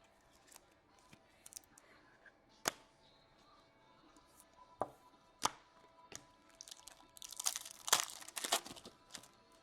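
A foil trading-card pack being torn open, the wrapper crackling and crinkling for a couple of seconds near the end, with scattered clicks and taps of cards being handled before it.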